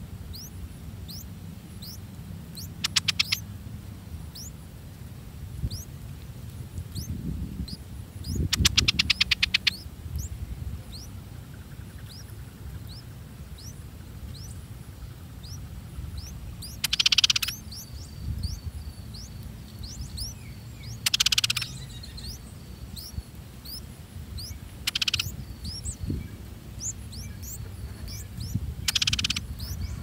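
Birds chirping, with short high chirps repeating throughout. Rapid chattering trills come about three and nine seconds in, and four short harsh calls follow a few seconds apart in the second half, over a low rumble.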